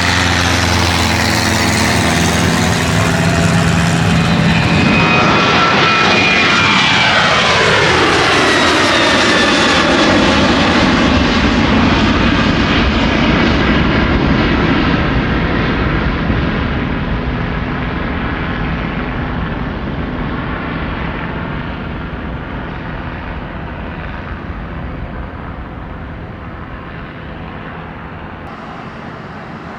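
An airplane's engines passing close by, with a whine that drops in pitch as it goes past about six seconds in. The sound then slowly fades away.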